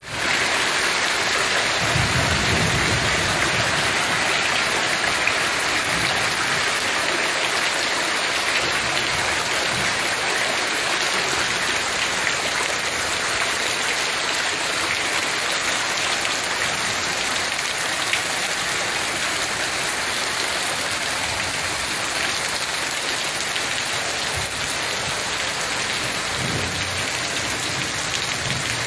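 Heavy rain pouring down steadily, a dense hiss of rain striking the ground and standing runoff water. Two brief low rumbles come through, one about two seconds in and one near the end.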